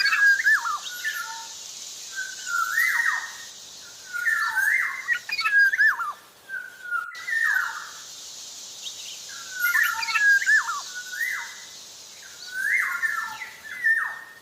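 Black-naped oriole (kepodang) in full song: short phrases of fluty, slurred whistles repeated every one to three seconds. A steady high hiss runs underneath and cuts out briefly about seven seconds in.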